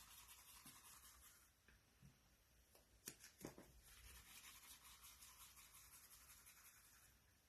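Near silence: room tone with faint rubbing and a few small ticks, the loudest two about three seconds in.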